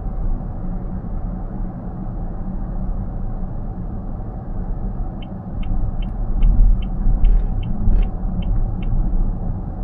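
Steady low road and tyre rumble inside a moving car's cabin at highway speed. About five seconds in, the turn-signal indicator ticks evenly, about two and a half times a second, for roughly four seconds, while the rumble swells as the car changes lanes.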